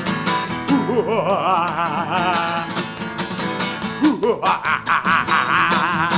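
Acoustic guitar strummed in a steady rhythm, with a wavering lead line over it that slides up in pitch about a second in and again later.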